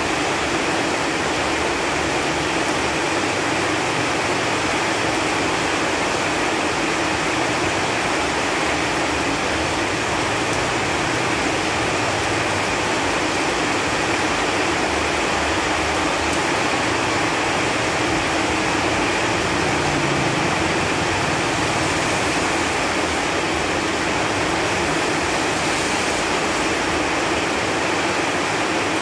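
Steady rain falling on leaves, an even patter that holds the same level throughout.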